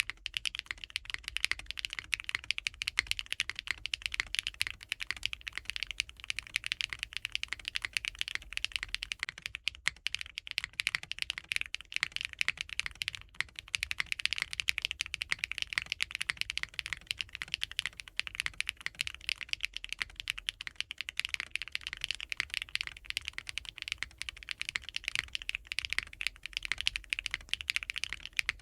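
Continuous fast typing on a Geim 65 custom 65% mechanical keyboard fitted with KeyGeek M3 linear switches and GMK keycaps: a dense, unbroken run of keystrokes.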